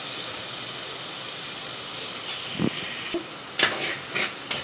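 Chicken curry masala sizzling steadily in oil in a pot on a gas stove, with a metal spoon scraping and knocking against the pot a few times in the second half. The masala has cooked down until it releases its oil.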